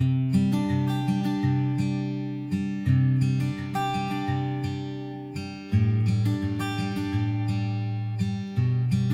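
Background music of acoustic guitar playing plucked chords, starting suddenly at the outset.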